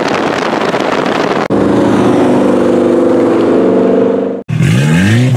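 Car engines on the road, with heavy wind noise on the microphone at first. After a cut, an engine holds steady revs for about three seconds. After a second cut near the end, an engine revs up hard, its pitch rising quickly.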